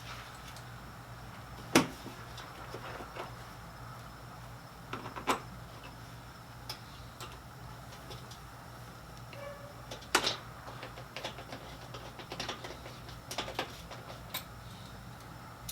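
Scattered knocks and clicks of hand work on a side-by-side's body panels and fasteners, three louder knocks standing out among lighter clicks, over a low steady hum.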